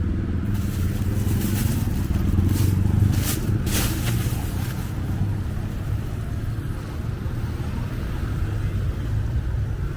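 Street traffic: motor vehicles running and passing, a steady low engine hum throughout, with a louder pass between about one and a half and four seconds in.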